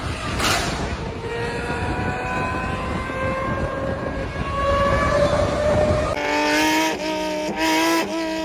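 A performance car engine accelerating hard, its note rising steadily in pitch over a rough exhaust rasp. About six seconds in it gives way abruptly to a different engine running at a steady pitch with several short, louder blips.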